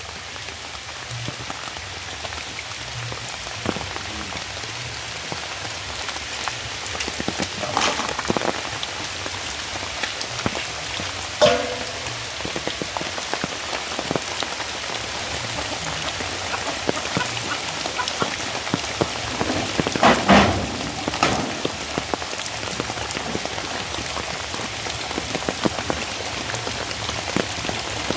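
Steady rain falling on surfaces around a house, a constant even patter with a few louder drops splashing out, the loudest about twenty seconds in.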